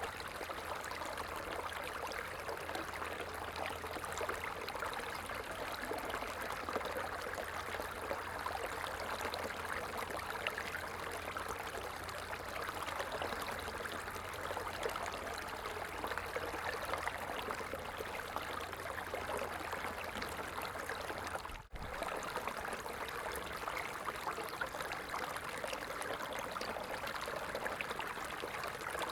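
A stream of water flowing steadily, a continuous rushing trickle. The sound dips out very briefly about three-quarters of the way through.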